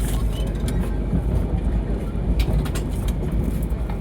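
Passenger train running, heard from inside the carriage: a steady low rumble with scattered clicks and rattles.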